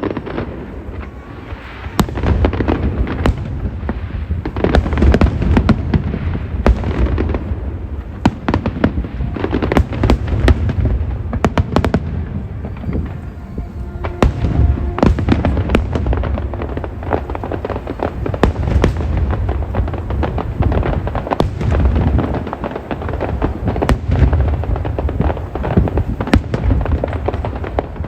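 Aerial fireworks going off in quick succession: a continuous run of deep booms and sharp cracks.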